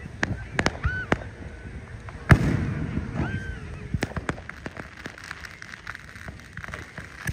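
Fireworks going off: a string of sharp bangs and pops at irregular intervals, the loudest about two seconds in with a rumble trailing after it.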